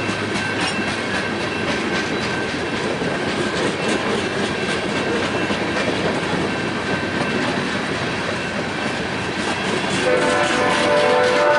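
Freight train rolling past, wheels clacking over the rails. About ten seconds in, a locomotive horn starts to sound.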